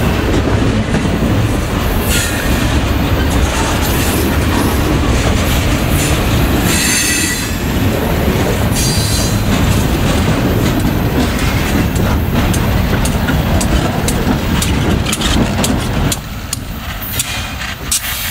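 Freight cars rolling past close by: a heavy rumble of steel wheels on the rail with clattering over the joints, and short wheel squeals about 2 and 7 seconds in. Near the end the sound drops to a quieter rumble with clicks.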